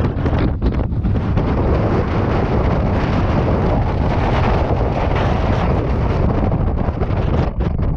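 Strong polar wind blowing hard and buffeting the microphone: a loud, steady rush with a heavy low rumble.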